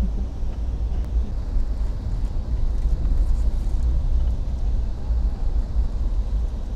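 Steady low rumble of a moving passenger train, heard from inside the car.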